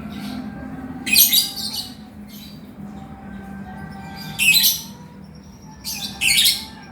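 Male lovebird giving harsh, shrill, squawking chirps in short bursts, the loudest about a second in, around four and a half seconds and near the end, with softer chirps between.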